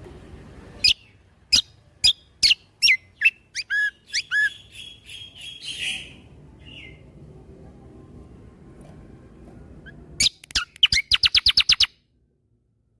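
Kecial kombo (cucak kombo) singing: a string of sharp falling whistled notes about two a second, then a buzzy trill, and after a pause a rapid-fire run of about ten notes, the "shots" of its song, that cuts off suddenly near the end.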